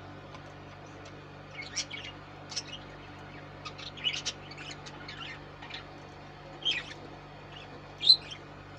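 Budgerigars chirping: short, high, scattered chirps, about a dozen over several seconds, over a steady low hum.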